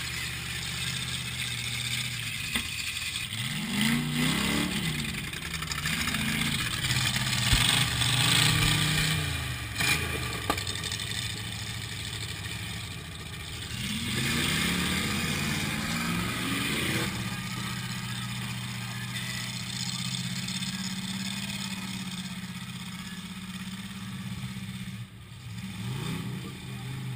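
Demolition derby car's engine, heard from inside the cab, revving up and down several times, then settling into a steady idle a little past the middle before revving again near the end. A couple of sharp knocks come during the early revving.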